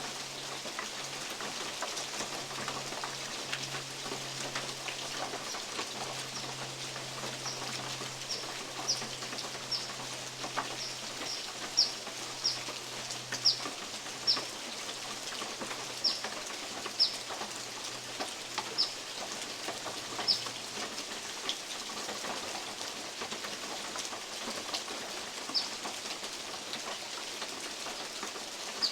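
Steady rain falling on a metal roof and on forest leaves, an even hiss. From about a quarter of the way in, a bird repeats short, high, falling chip notes every half second to a second, the loudest sounds here, thinning out near the end.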